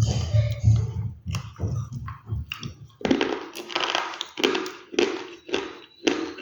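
Crunchy food being chewed close to the microphone: low, muffled chewing for about three seconds, then a run of loud, sharp crunches about two a second.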